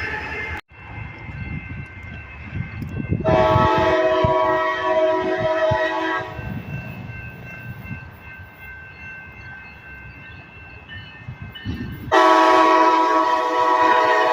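Train horn sounding two long blasts, the first about three seconds and the second about two seconds, over the low rumble of a moving train.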